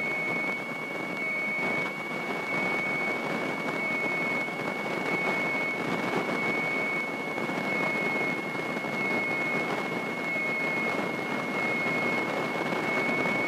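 Steady hiss of a small training airplane's cabin noise heard through the headset intercom, with a thin, steady high-pitched whine held level throughout.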